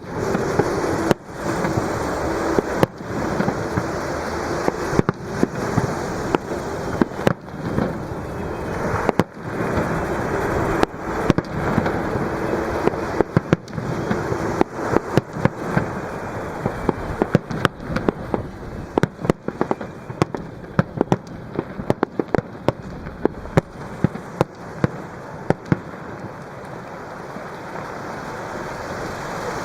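Aerial fireworks bursting in a steady stream of sharp bangs and pops, thickening into rapid crackling past the middle, over the continuous wash of waves breaking on the shore.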